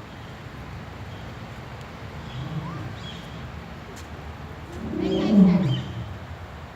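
An animal's low call: a short one about two and a half seconds in, then a longer, louder one that falls in pitch, about five seconds in.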